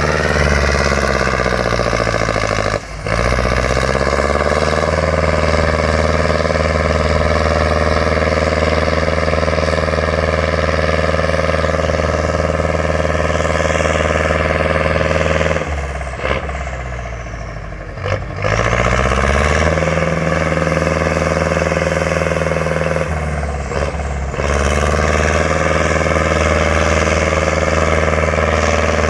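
Heavy off-road competition truck's engine running hard under load, its revs dropping briefly about 3 seconds in, then for a couple of seconds in the middle and again near the end, each time climbing back up.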